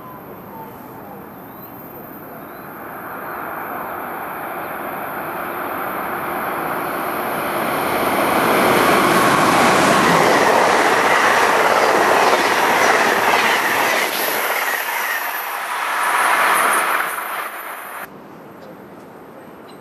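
Electric passenger train passing a station platform at speed: the rush of wheels and cars builds as it approaches and is loudest as the cars go by close at hand. The sound cuts off suddenly near the end, leaving a much quieter steady background.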